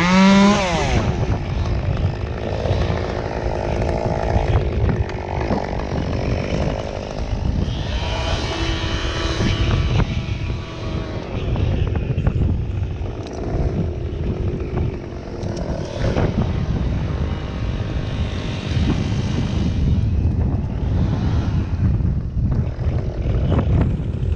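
Small two-stroke engine, a chainsaw, running unevenly. It revs up sharply right at the start and rises again about eight seconds in, over a steady low rumble.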